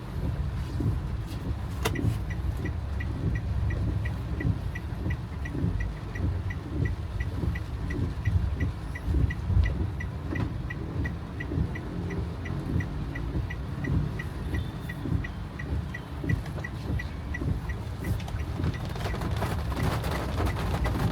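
Car engine running at rest with a steady low rumble. A sharp click about two seconds in is followed by even, rapid electronic ticking, about three a second, that stops near the end, when a rising hiss comes in.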